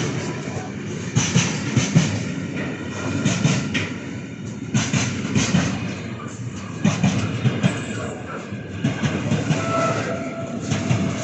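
A train passing close by, its wheels clattering over the rail joints in a quick, uneven series of knocks over a steady rumble. A faint thin squeal joins near the end.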